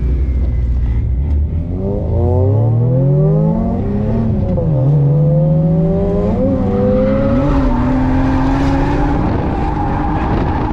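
Drift car engine revving hard: the pitch climbs for about two seconds, drops sharply about four and a half seconds in, then holds high with two quick blips. Tyre noise builds near the end as the car slides.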